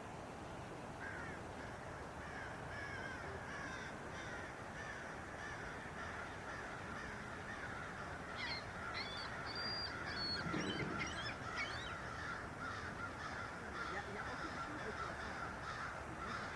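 Many birds calling and chattering over one another in a dense, continuous chorus. It is busiest and loudest a little past the middle, over a steady background hiss.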